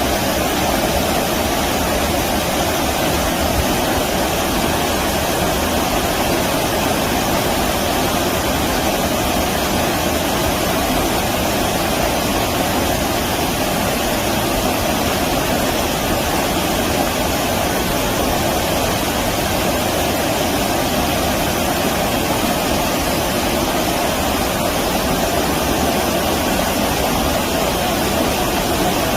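Stream water rushing steadily over shallows, a continuous even rush with no breaks.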